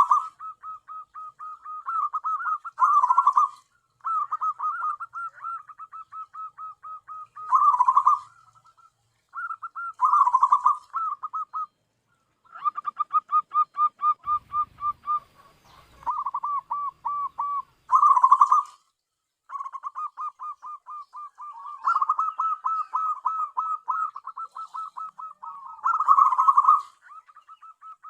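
Zebra dove (perkutut) song: phrase after phrase of rapid staccato coos, each phrase opening with a louder burst and trailing into a quick string of softer notes, with short pauses between phrases.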